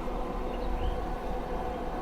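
An engine running steadily, a constant hum with a low rumble, with a few short bird chirps over it.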